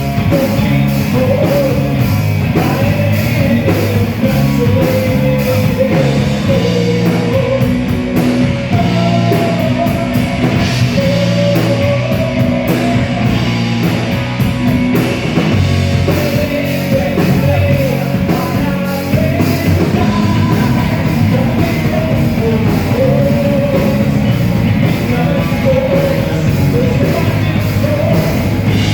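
Rock band playing live, a singer's voice carrying the melody over a dense, steady beat of drums and band.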